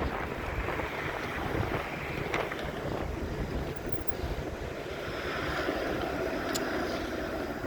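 Wind buffeting the microphone with a steady rumble of road noise while riding a bicycle, with a faint click near the end.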